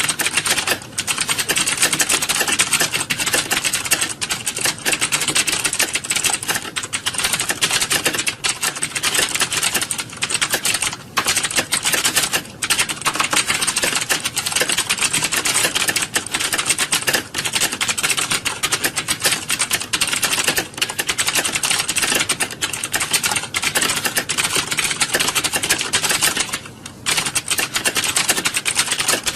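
Many computer keyboards being typed on at once: a dense, continuous clatter of keystrokes from a room full of typists, with a brief lull near the end.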